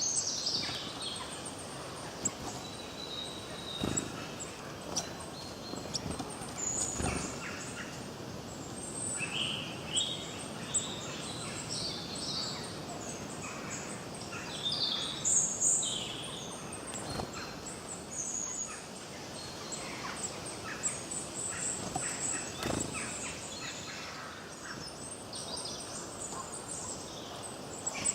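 Forest birds singing, many short high chirps and trills overlapping, over a steady background hiss. There are a few brief low thumps.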